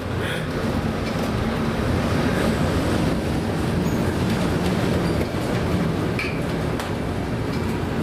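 Steady heavy rumble and rushing noise aboard a ship in rough seas, with a few faint knocks.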